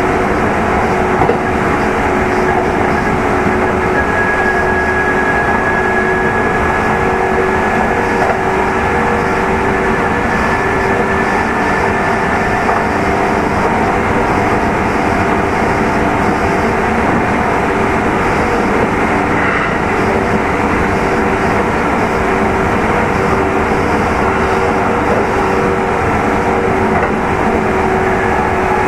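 Running noise of a Kintetsu 2800 series electric multiple unit heard on board motor car Mo 2813 while travelling between stations: a steady rumble of wheels and traction equipment with a constant hum. A faint high whine rises slightly between about four and thirteen seconds in.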